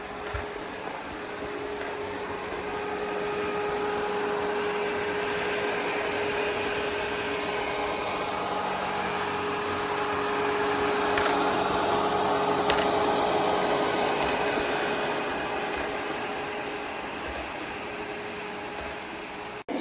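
ECOVACS DEEBOT T50 Pro robot vacuum running: a steady whir with a constant hum, growing louder toward the middle and easing off again near the end.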